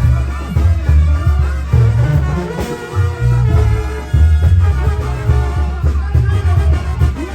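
Mexican brass banda playing a lively tune, with a tuba bass line under the brass.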